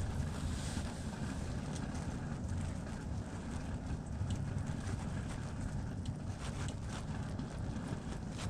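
Strong wind buffeting the microphone: a steady, fluttering low rumble, with a few faint ticks scattered through it.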